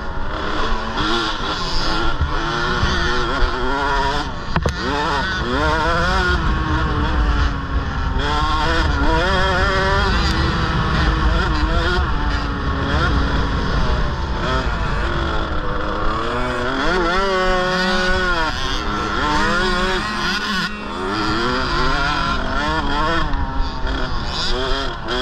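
KTM 65 two-stroke mini motocross engines revving up and down through the gears, with pitch rising and falling throughout and more than one engine heard at once around the middle.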